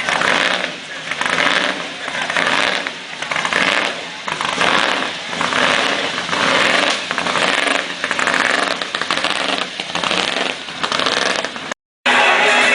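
An engine running with a regular surging, swelling and fading about three times every two seconds, and it cuts off suddenly near the end.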